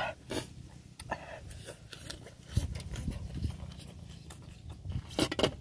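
A person chewing a mouthful of food and fresh leafy greens, with wet lip smacks and mouth clicks coming irregularly throughout.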